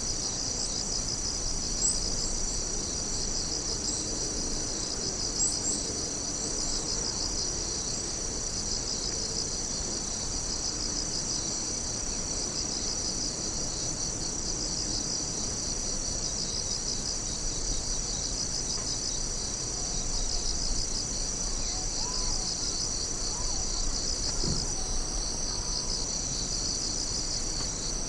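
A chorus of crickets chirping: a steady high trill layered over a faster, evenly pulsing chirp. Two brief sharper chirps stand out about 2 and 5 seconds in.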